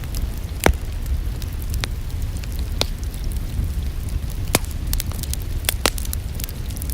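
Wood fire crackling in a fireplace, a steady low rumble broken by scattered sharp pops, the loudest a little under a second in, over a soft even hiss of rain.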